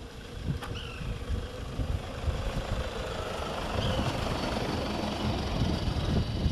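White woodpecker giving two short, falling call notes, a few seconds apart, over a steady low rumble.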